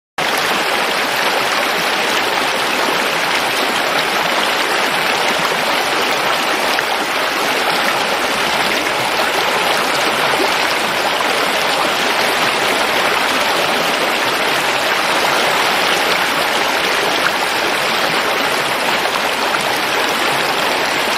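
Steady rushing of flowing water, as from a stream, an even hiss with no let-up.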